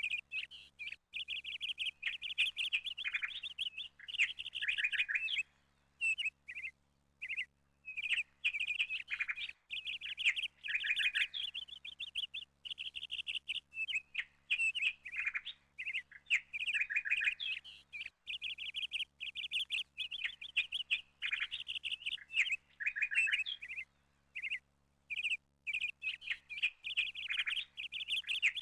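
Small birds chirping in quick runs of notes, with brief pauses between bursts.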